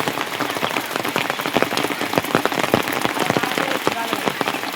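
Steady rain, with many close drops striking a surface as a dense, irregular patter of sharp clicks.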